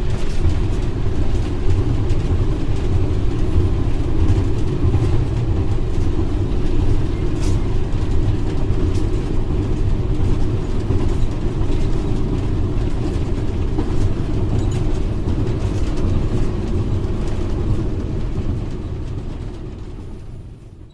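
GMU-30 diesel-electric locomotive running at speed, heard from the cab: a steady low rumble of engine and running gear on the rails. It fades out over the last few seconds.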